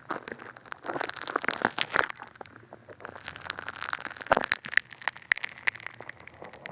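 Funny Foam bath foam squished and popping right against a binaural dummy-head microphone's ears: a dense, wet crackle of many tiny bubbles bursting, with a few sharper pops about two seconds in and again past the four-second mark.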